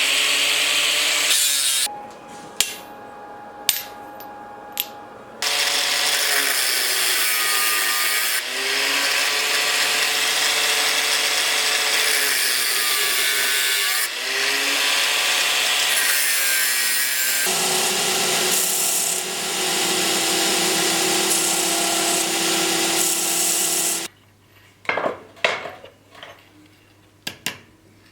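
An electric power tool runs in long spells under load, its pitch dipping and recovering as work is pressed against it. In the quieter gaps between spells come a few sharp clicks and knocks.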